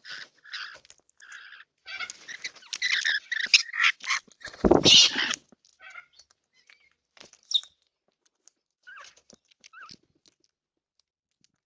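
Birds calling in short chattering bursts, busiest for a few seconds early on, with one loud rushing burst about five seconds in. After that only scattered chirps and a couple of short gliding notes.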